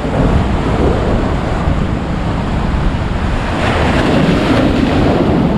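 Big ocean waves breaking and washing up the shore, with wind buffeting the microphone; the wash swells louder about three and a half seconds in.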